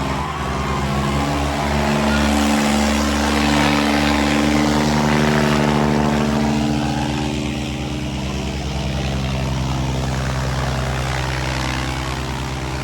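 Diesel engines of Eicher 557 tractors running loud and steady, as in a tractor tug-of-war pull.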